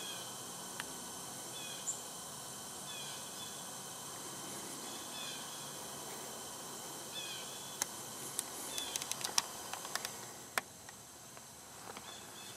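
Woodland background hiss with short high chirps repeated every second or so, from a small bird. About eight seconds in comes a quick run of sharp clicks and snaps that ends a little past ten seconds.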